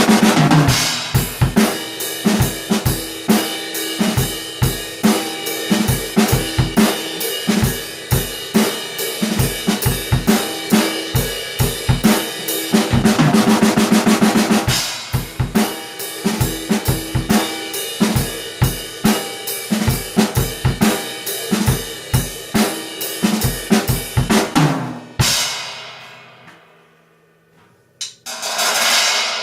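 Drum kit played along to a country song's recording: a steady beat of bass drum and snare with cymbals, a roll about halfway through. The beat stops and the music fades a few seconds before the end, then a single cymbal crash rings out near the end.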